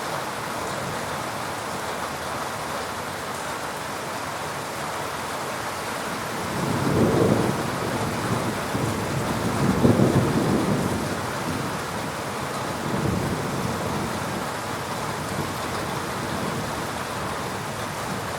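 Heavy rain falling steadily, with rolling thunder rumbling through it in three low swells, the loudest about ten seconds in.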